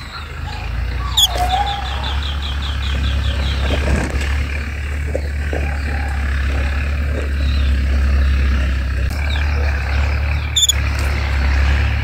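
Small birds chirping over a steady low rumble. A sharp high chirp about a second in is followed by a run of quick repeated notes, about five a second, for a couple of seconds, and another sharp chirp comes near the end.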